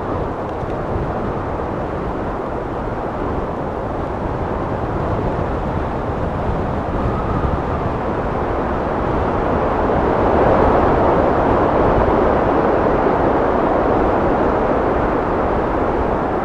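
Steady wind blowing, a low rushing noise that swells a little louder about two-thirds of the way through.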